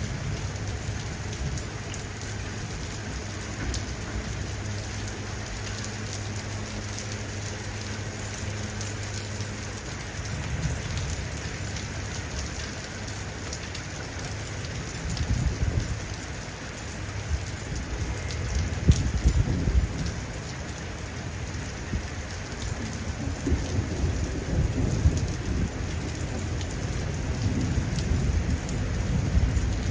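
Steady heavy rain falling, with low thunder rumbling in the distance. The rumbles grow stronger and more frequent from about a third of the way in.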